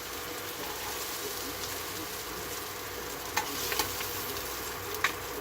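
Pork belly sizzling as it sears in a hot pan, a steady hiss, with a few sharp clicks of a utensil against the pan in the second half.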